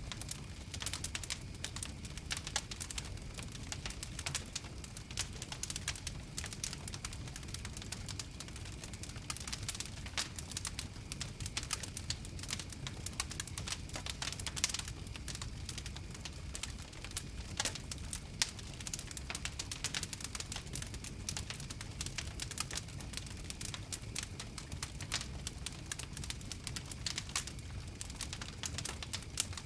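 Bonfire crackling steadily: dense, irregular small pops and snaps over a low rumble of burning, with one sharper pop about two-thirds of the way through.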